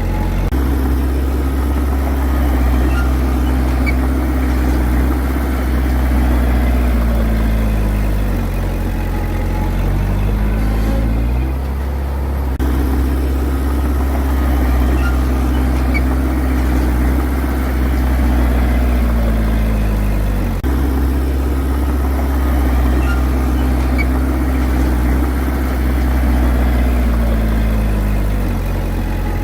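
Bulldozer's diesel engine running steadily under changing load. Its pitch sags and recovers three times, about every ten seconds, as the engine takes and sheds load during pushing passes.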